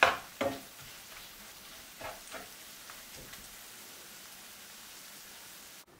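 Green chillies frying in oil and spices in a non-stick wok: a couple of spatula scrapes at the start, then a soft steady sizzle with a few small pops, cut off just before the end.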